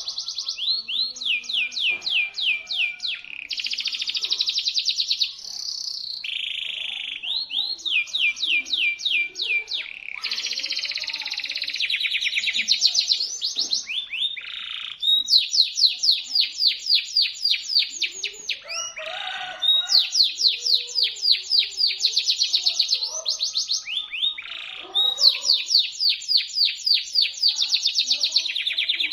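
Local domestic canary singing a shrill, sharp song of fast trills. Each run of rapid repeated notes lasts one to three seconds, with short breaks and brief rising notes between runs.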